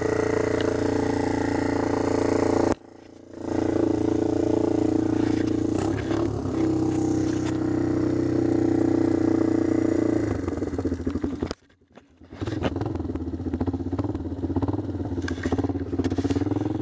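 Yamaha Timberwolf 250 ATV's single-cylinder four-stroke engine running at a steady idle shortly after a cold start. The sound cuts out abruptly twice, for under a second each time. After the second cut-out the engine runs a little less evenly.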